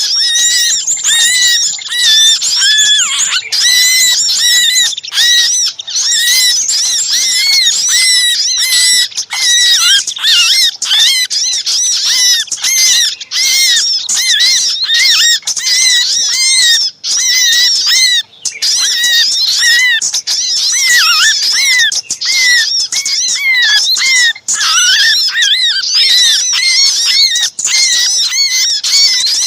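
A dense, noisy chorus of small birds chattering, made of short high arched chirps and squeaks several times a second. These are the agitated and distressed calls that are used as a lure to draw other small birds in.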